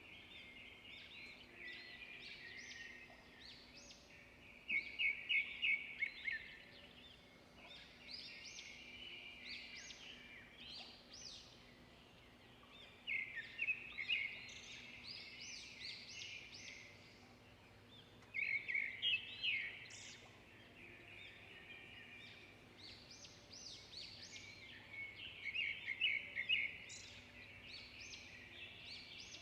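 Songbirds chirping and singing, several overlapping, with a loud phrase of quick repeated notes breaking out every several seconds, four times in all.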